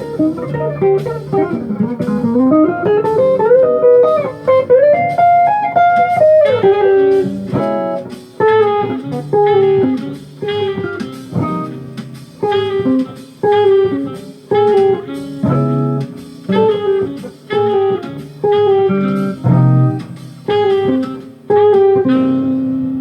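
Guitar playing jazz: a climbing run of single notes for the first six seconds or so, then short, detached chords struck in a steady rhythm, ending on a held note.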